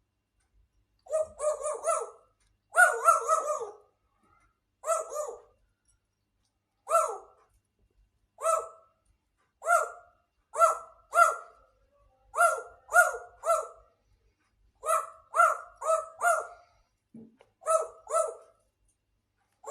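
Grey parrot giving a long series of short, bark-like calls, some singly and some in quick runs of two to four.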